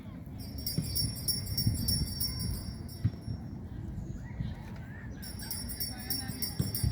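Rapid metallic jingling, shaken in two spells, the second starting about five seconds in, over low rumbling with a few bumps.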